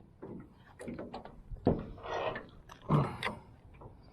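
Irregular knocks, clicks and rattles of handling in a small boat, with two louder thumps about halfway through and again a second later.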